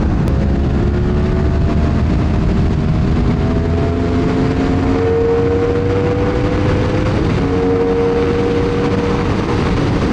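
Sport-bike engine running at road speed, its note climbing slowly, over heavy wind rush on the microphone.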